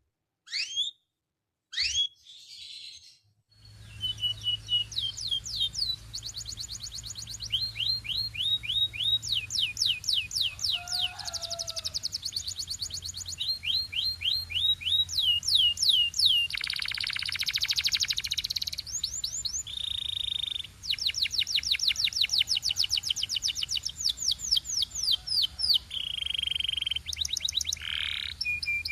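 Domestic canary singing: a few separate short chirps, then, from about three and a half seconds in, a continuous song of fast trills. Each trill is a run of quick repeated sweeping notes, and the song shifts from one trill to the next every second or two.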